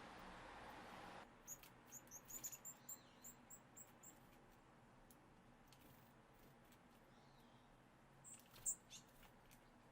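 Small birds calling: a quick run of short, high chirps for about three seconds, then a few louder chirps near the end. A steady background hiss cuts off about a second in.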